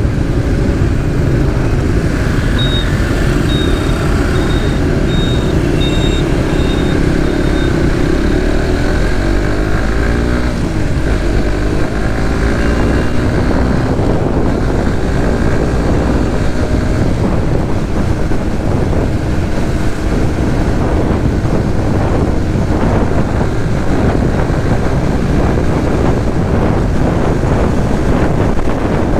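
Onboard sound of a Suzuki GSX-S150's single-cylinder engine running under way through traffic, with engine note gliding up and down as revs change. A run of short high beeps comes a few seconds in, and wind buffeting on the microphone grows in the second half.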